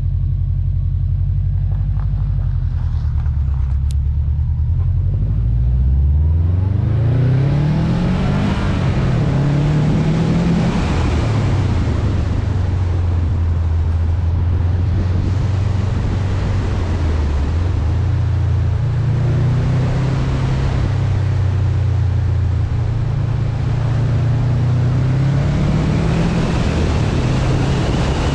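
2019 Subaru WRX STI's turbocharged flat-four through an Invidia N1 exhaust, running steady and low at first. About six seconds in it pulls away, its pitch rising, then eases off and climbs again as the car is driven. Heavy wind noise on the roof-mounted microphone.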